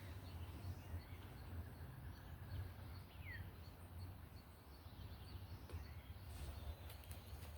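Quiet garden ambience: a steady low rumble under a faint even hiss, with a couple of short falling bird chirps, one at the start and one about three seconds in.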